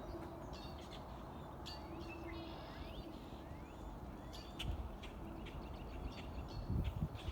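Wild birds calling: a continuous run of short, sharp chirps and calls with a few rising whistled notes, joined by a few low bumps in the second half.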